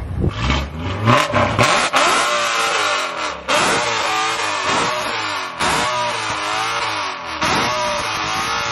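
BMW E92 coupe's engine revved hard while standing still. The first two seconds hold a heavy low rumble with sharp cracks, then the pitch climbs and drops again and again, about once a second.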